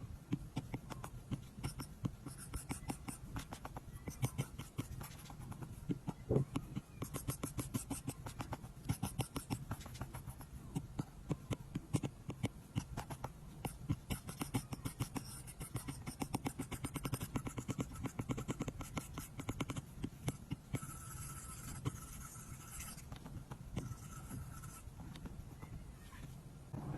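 Apple Pencil tip tapping and scratching on an iPad's glass screen in many quick, short strokes, over a faint steady hum.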